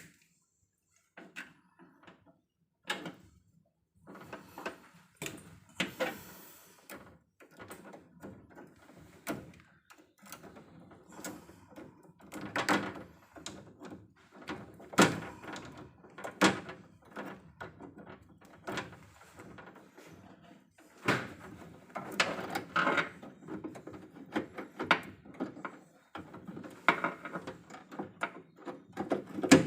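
Irregular clicks, knocks and rattles of tools and hardware being handled during work on an electrical distribution panel, busier and louder in the second half.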